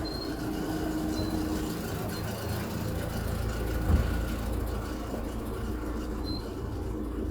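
Steady low background rumble, with a few faint, brief high peeps and one thump about four seconds in.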